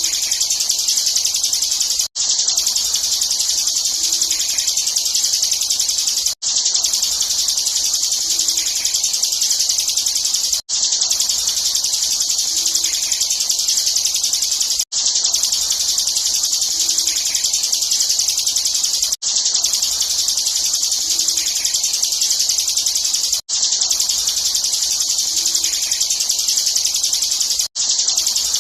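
Bar-winged prinia (ciblek) singing its rapid, continuous high-pitched trill in the 'ngebren' style. The recording is a loop that restarts about every four seconds after a brief break.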